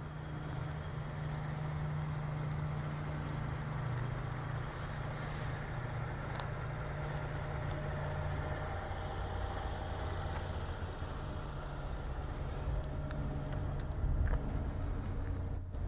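Engine of a 1965 Ford bucket truck running steadily with a low hum; its tone shifts a little about halfway through, and there is a brief louder moment near the end.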